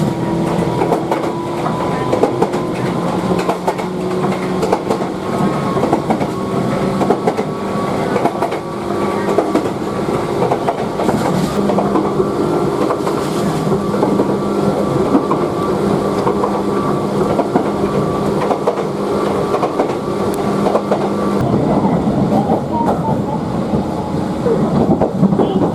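Toyama Chihou Railway electric train running, with a steady hum of several tones under a dense rattle of wheels and car body. The hum shifts about three-quarters of the way through.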